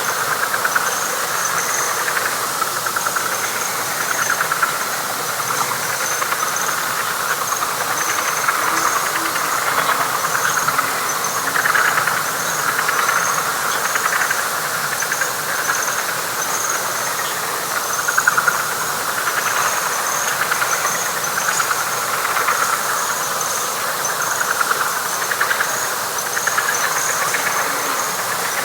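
Dense night frog chorus: a continuous pulsing trill of many callers, with short high chirps repeating about once a second above it.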